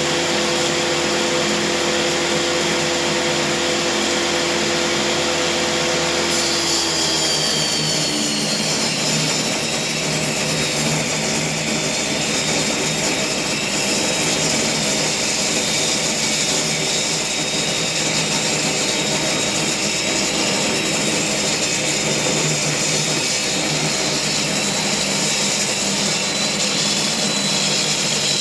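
Table saw running and ripping wood boards to width. A steady motor hum dips in pitch about seven seconds in, as the blade goes through the wood.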